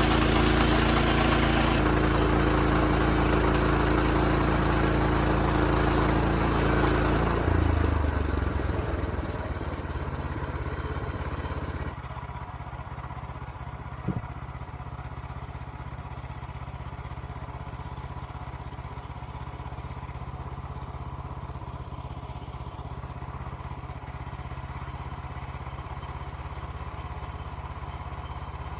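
Portable bandsaw sawmill's engine running at high speed, then throttling down with a falling pitch about seven seconds in and settling to a quieter steady idle. A single knock sounds a little after halfway.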